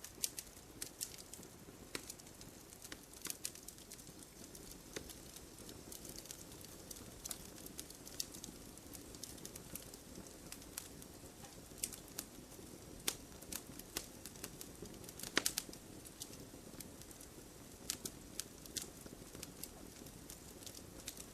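Wood fire in a fireplace crackling, with irregular sharp pops and snaps over a soft steady background hiss. A louder cluster of pops comes about fifteen seconds in.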